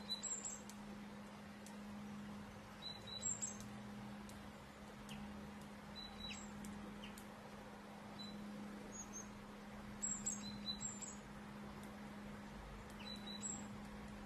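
Short, high bird chirps every couple of seconds, several in quick pairs, over a steady low hum.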